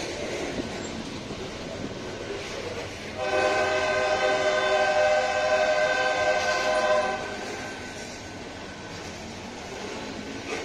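Loaded freight hopper cars rolling past with a steady rumble and clatter of wheels on rail. About three seconds in, a multi-tone locomotive air horn sounds one long blast for about four seconds, then cuts off.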